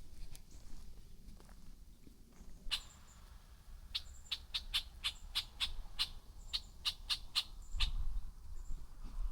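A bird calling: a run of short, sharp notes, about three a second, with faint thin high chirps among them.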